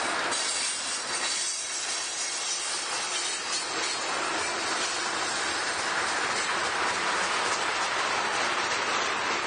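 Freight train cars rolling past on the rails, a steady noise of steel wheels on track.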